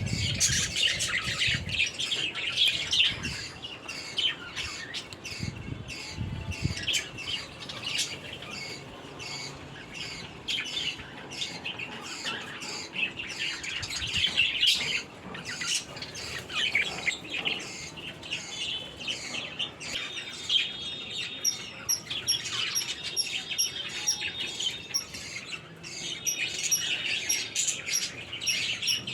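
A flock of small caged birds in an aviary chirping and chattering continuously, with many overlapping calls. From about two-thirds of the way in, a thin high peep repeats a few times a second over the chatter.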